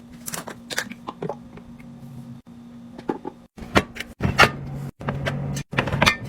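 A series of short clicks, taps and knocks as hard containers and items are handled and set down, over a steady low hum.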